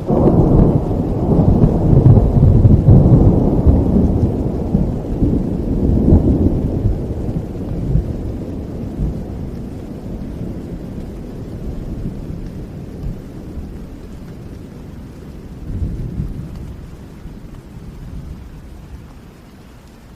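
A long roll of thunder, loudest in the first six seconds or so and slowly dying away, with a smaller rumble near the end, over steady rain.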